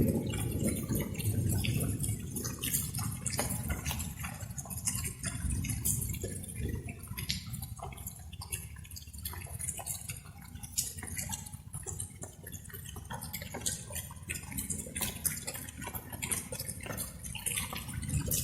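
Light rain, with many irregular drops pattering over a steady low noise.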